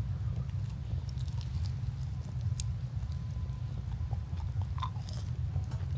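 Close-up chewing and biting into a croissant, with soft crunchy mouth sounds and small clicks, over a steady low hum.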